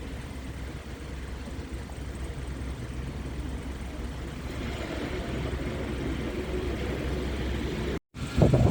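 Low, steady rumble of an approaching New York subway train on an elevated line, with wind on the microphone, growing gradually louder. It cuts off abruptly near the end, and a louder, choppier sound starts.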